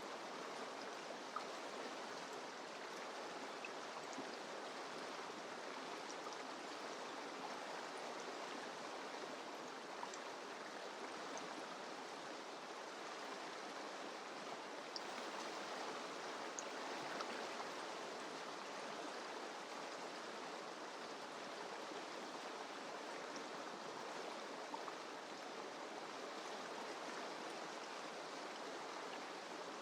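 Mountain river running over rocks: a steady rush of water with small splashes and trickles now and then.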